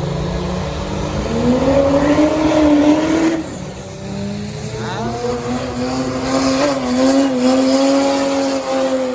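Drag racing car accelerating hard down the strip, engine pitch climbing steadily, then dropping sharply at a gear change about three and a half seconds in before pulling again.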